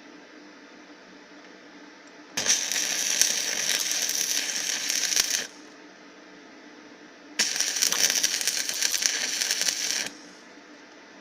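Stick (MMA) electric arc welding: the arc crackles and sizzles in two runs of about three seconds each, with a steady low hum between them.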